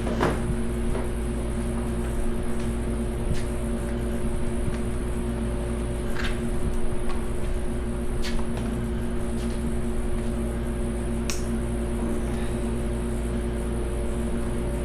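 A steady machine hum, like a shop fan or air conditioner, runs throughout. Over it come a few sharp clicks and clinks of hand tools and sockets on engine bolts.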